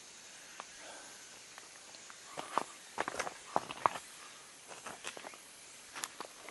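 Footsteps on a rough outdoor path: clusters of short scuffs and crackles about two seconds in and again near the end, over a faint steady hiss.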